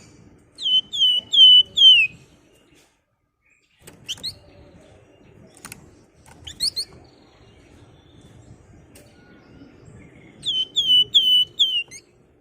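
Flamboyan songbird calling. Two bursts of four quick, loud whistles, each sliding downward, come about a second in and again near the end. Between them are a couple of sharp rising whistles.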